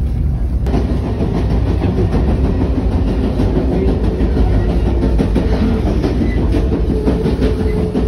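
Amtrak Piedmont passenger train running on the rails: a steady rumble with irregular clickety-clack of wheels over the track. The sound turns harsher and brighter under a second in, and a steady tone builds toward the end.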